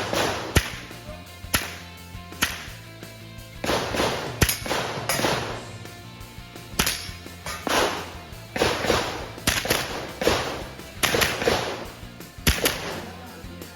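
Armscor M22 .22 LR rimfire rifle firing a string of about a dozen sharp shots at irregular intervals, from about half a second to a couple of seconds apart.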